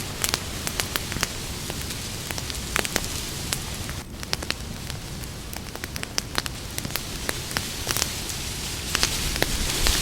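Campfire burning: a steady hiss broken by many irregular sharp crackles and pops. The hiss dips briefly about four seconds in.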